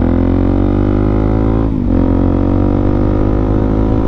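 Suzuki DR-Z400SM's single-cylinder four-stroke engine running under way, a steady drone whose pitch eases slightly, with a short break about two seconds in, as at a gear change.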